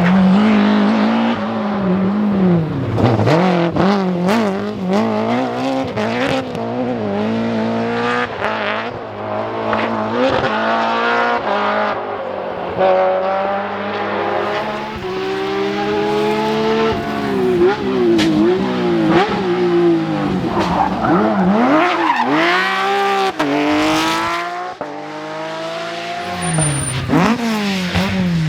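Rally car engines revving hard, the pitch repeatedly climbing and then dropping with gear changes and lifts of the throttle.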